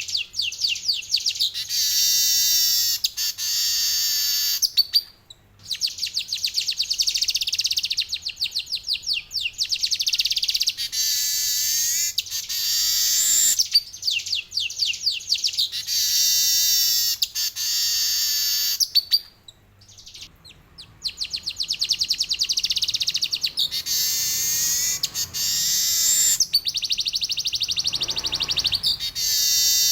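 Male manyar (weaver bird) singing long, rapid, buzzy trills, phrase after phrase, with short pauses about five seconds in and again about twenty seconds in.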